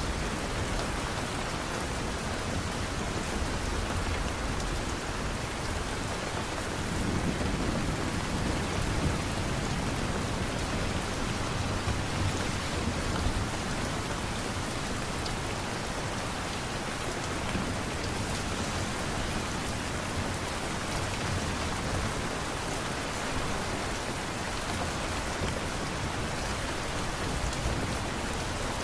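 Steady rain falling, an even hiss of drops, with a low rumble swelling up around seven seconds in.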